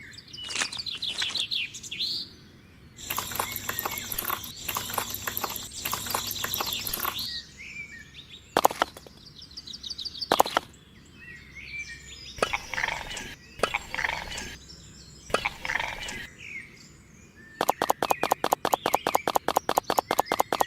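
Birds chirping and tweeting in short calls, mixed with clattering and a couple of sharp clicks. In the last few seconds a fast, even clicking starts, about eight clicks a second.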